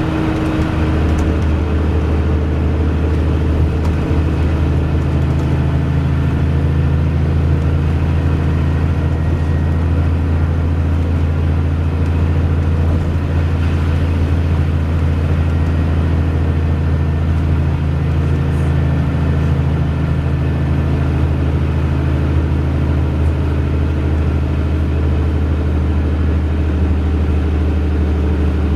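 Wright Pulsar Gemini 2 bus's diesel engine running steadily with a deep, even hum, heard from on board.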